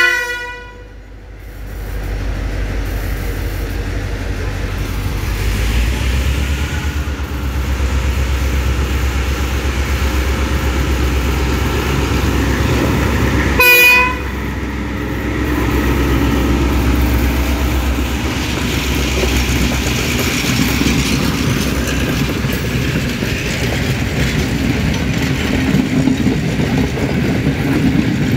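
Sri Lanka Railways diesel locomotive passing close by: a short horn blast right at the start, then the engine's steady low rumble as it draws past, with a second brief horn toot about 14 seconds in. In the second half the coaches roll by with wheels clattering over the rails.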